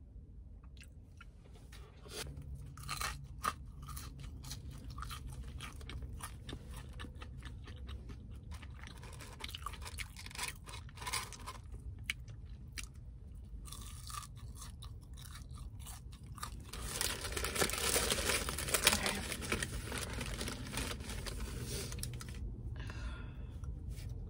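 Close-up chewing with crunching of fried fast food, wet mouth clicks and crackles coming steadily. About two-thirds of the way through comes a louder stretch of rustling.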